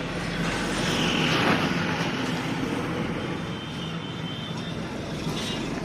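A motor vehicle's engine running with a steady low hum, growing louder about a second in and then easing off.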